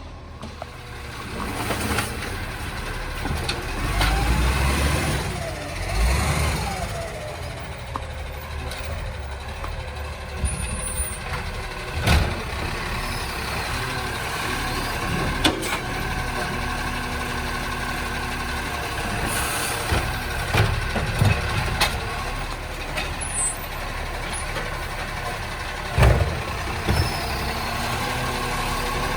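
Recycling garbage truck running steadily, with a few pitch glides early on and several sharp knocks and bangs spread through.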